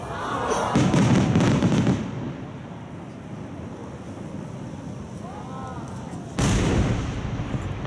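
Aerial firework shells bursting some distance away. About a second in comes a loud run of booms and crackles lasting about a second, and near the end a single sudden heavy boom rings out.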